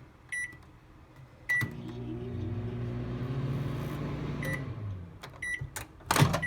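Whirlpool microwave oven: two short keypad beeps, then the oven runs with a steady hum for about three seconds on a 3-second test cycle. The hum stops, short beeps follow, and a loud clunk comes near the end.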